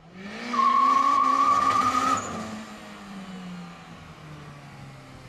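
Turbocharged Honda K20Z3 four-cylinder engine, boosted to 7.5 psi, pulling hard under full throttle with a loud high squeal over it, cut off suddenly about two seconds in as the throttle closes; the engine then runs on much quieter, its revs falling.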